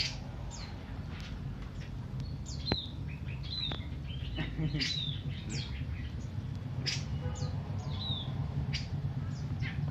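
A songbird calling in short, sharp chirps that sweep down in pitch, mixed with a few hooked whistled notes, spaced irregularly, over a steady low background hum.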